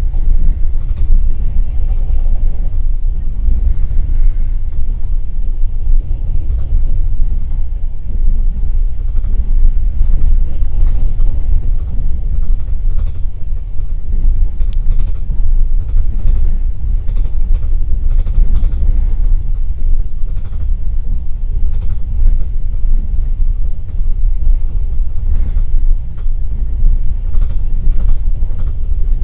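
Passenger train running along the track, heard from inside a platskart (open-berth) carriage at the window: a loud, steady low rumble with scattered clicks and knocks from the wheels and carriage.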